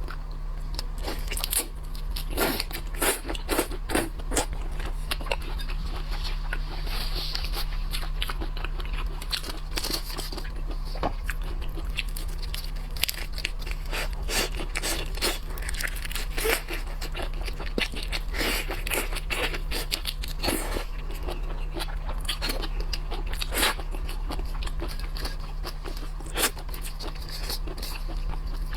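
Close-miked crunching and crackling of shrimp shells being cracked and chewed, with irregular snaps and clicks throughout, over a steady low electrical hum.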